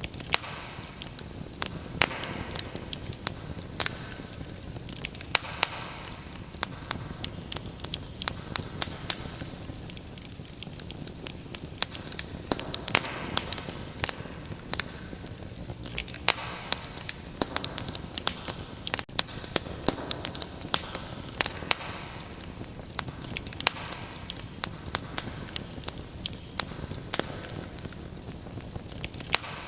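Fireplace fire crackling: frequent, irregular sharp pops and snaps over a steady soft hiss.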